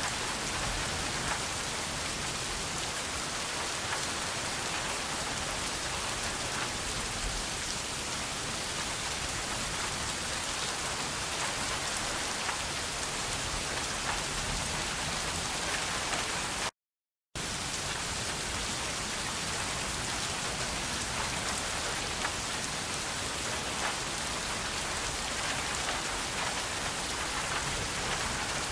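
Steady rain falling, an even hiss with fine patter of drops, cut by a brief total dropout to silence about two-thirds of the way through.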